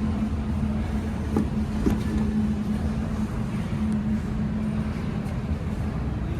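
Ford Ranger Raptor's 3.0-litre twin-turbo V6 idling steadily with an even hum, and two light clicks in the first two seconds.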